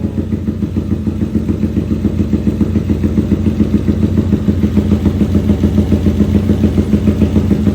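Honda CG 160 Start single-cylinder four-stroke engine, freshly rebuilt and running on methanol, idling loudly and steadily with an even pulsing beat.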